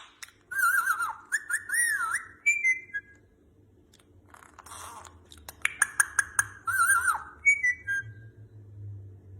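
Pet parrot whistling: wavering, warbling whistles mixed with short high chirps and clicks, in two bouts, one near the start and another about five to seven seconds in, over a faint steady hum.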